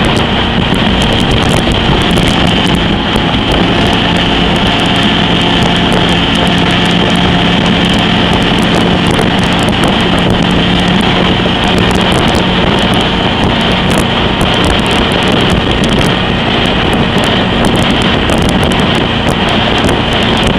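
22 ft Eliminator/Stoker speedboat's engine running steadily at cruising speed, about 3400 rpm at 70 mph, with wind rushing over the microphone.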